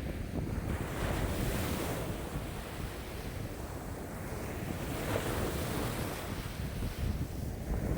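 Lake waves washing in strong wind, surging and easing every few seconds, with wind buffeting the microphone as a low rumble.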